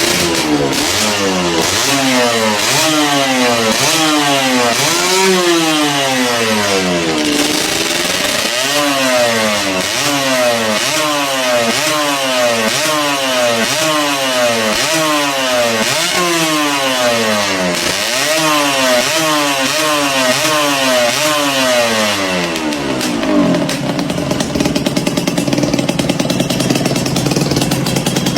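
Honda NSR SP's single-cylinder two-stroke engine being revved through its exhaust in quick repeated throttle blips, each rising and falling back, about once a second. Near the end it settles to a steady idle.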